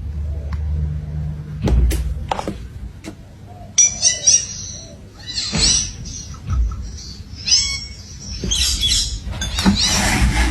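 Parrot chirping: a series of short, high-pitched calls in repeated bursts, starting about four seconds in after a couple of sharp knocks.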